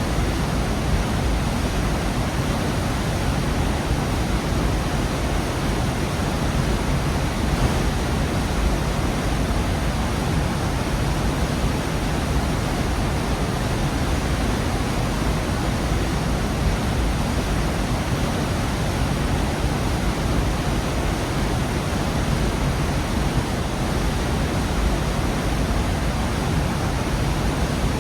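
Gorge waterfall: a constant, dense rush of falling water, heavy in the low end, with no change in level.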